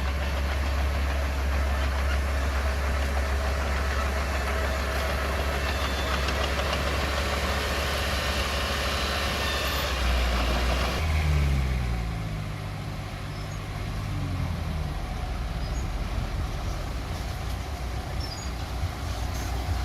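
Komatsu mini bulldozer's diesel engine running loud and steady, then about twelve seconds in it throttles back, its pitch sinking over a few seconds before it settles to a quieter run.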